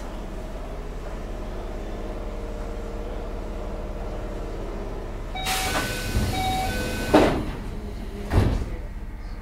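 Keio 7000-series train standing with a steady hum. About five seconds in, the door chime beeps over a rush of air as the pneumatic sliding doors close and shut with a bang, followed by a second thump about a second later.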